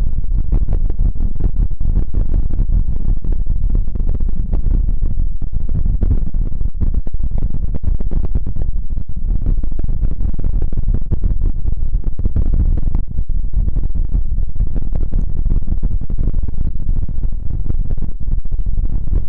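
Continuous close rubbing and scratching on an ASMR microphone, dense with small crackles.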